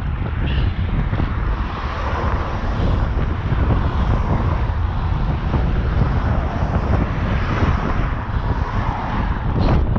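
Strong wind buffeting the microphone of a moving bicycle, a dense steady rumble. A brief sharp sound cuts through near the end.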